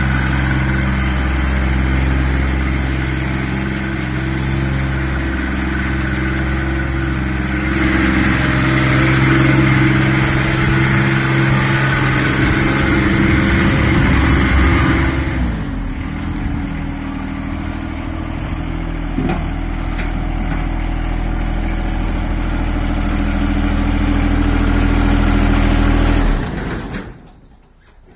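A motor vehicle engine running steadily, its note shifting a couple of times, then stopping near the end.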